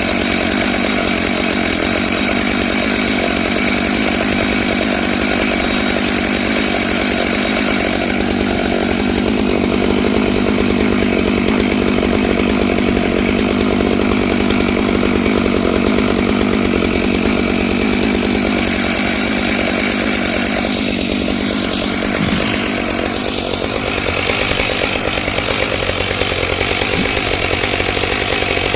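Stihl MS661 two-stroke chainsaw running steadily under load on a Norwood PM14 chainsaw mill, its ripping chain cutting lengthwise through a pine log.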